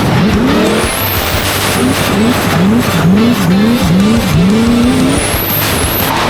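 Toyota 1UZ V8 in a BMW E46 drift car revving hard in repeated rises and drops as the throttle is worked mid-drift, with tyres squealing.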